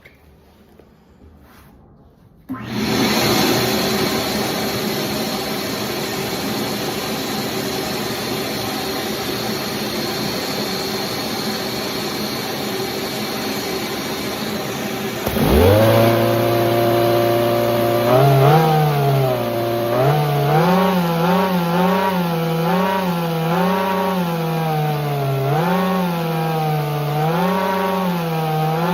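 Small model engine running: about two and a half seconds in, a steady whirring, buzzing mechanical sound starts. Around fifteen seconds in, a loud engine-like hum joins it, and from about eighteen seconds its pitch rises and falls over and over, like revving.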